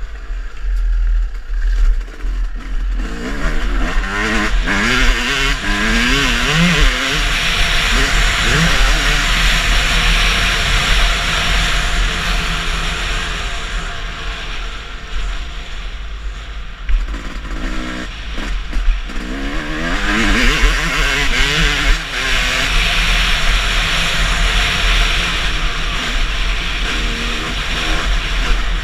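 Motocross motorcycle engines revving, their pitch sweeping up and down over and over as the throttle is worked, over a steady hiss and a deep rumble.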